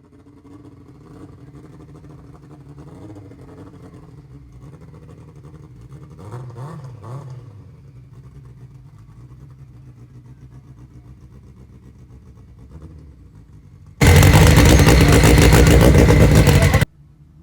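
Motor vehicle engines running at a moderate distance, with one engine rising and then falling in pitch about six to seven seconds in. About fourteen seconds in, a much louder noise starts abruptly, lasts nearly three seconds and stops as suddenly.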